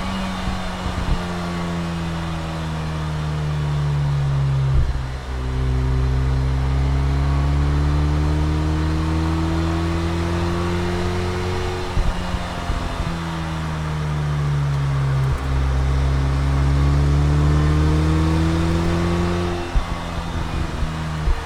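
2007 Saturn Sky Redline's turbocharged 2.0-litre four-cylinder driving through the gears with factory intake and exhaust. The engine note winds down, then climbs under acceleration, winds down again and climbs a second time. It is louder while climbing, and there is a brief break at each change.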